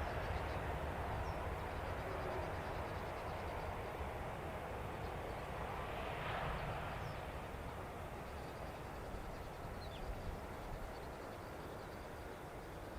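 Jet airliner engine noise slowly fading away: a broad low rumble and roar that gradually dies down.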